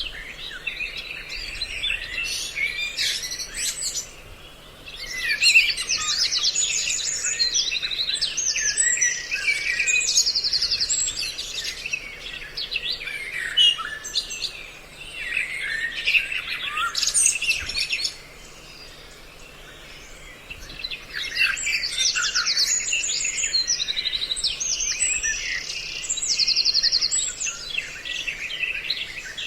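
A mixed recording of several songbirds' calls, made as a trapping lure: dense bouts of chirps and whistles with fast, high trills. The calling drops away briefly about four seconds in and again for a few seconds past the middle.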